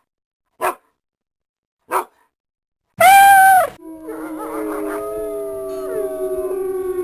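Dog howling: two short sharp barks, then a loud short howl about three seconds in, followed by long overlapping howling notes that waver and glide in pitch.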